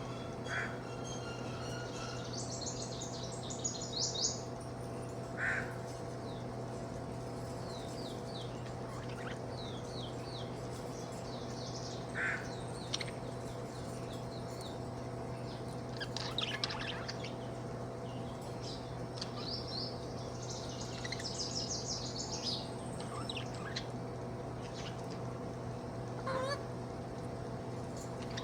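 Budgerigar chattering in short bursts of quick high chirps and warbles, with a few single short calls in between, over a steady low hum.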